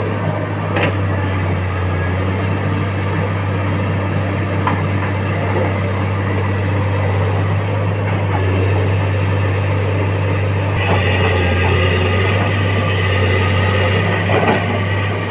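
Excavator diesel engine running steadily, with a few short knocks. About eleven seconds in, a higher whine joins the engine, as the machine's hydraulics come under load.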